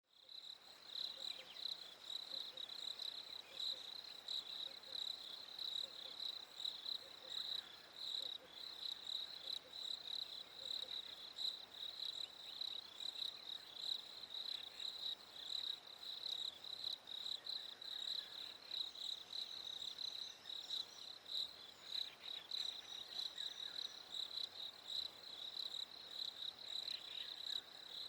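Crickets chirping in a steady night chorus: a continuous high trill that pulses rapidly, with a few fainter scattered calls beneath it.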